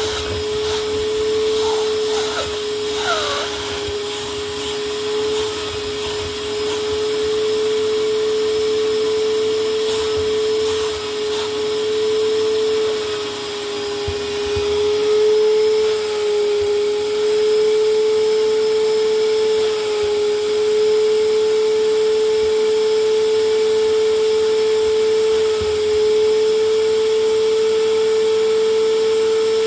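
Vacuum cleaner running steadily, a loud motor whine over a rush of air, its pitch wavering slightly as it works over the sofa bed. A few clicks and rattles in the first few seconds and again around ten seconds in.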